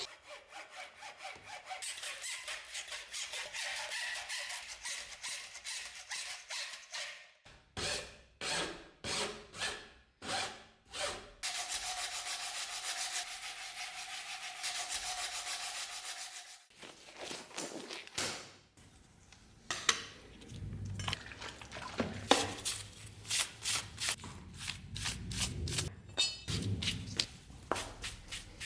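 Hand filing and rubbing on the knife: a file scraping in runs of strokes, about two a second at times, with stretches of steady rubbing and a few sharp knocks in the second half.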